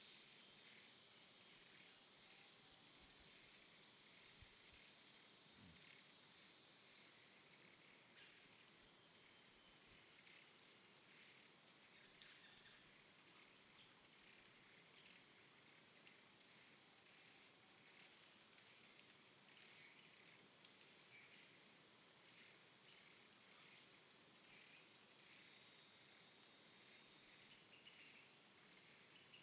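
Near silence: faint outdoor ambience with one steady high-pitched insect drone throughout.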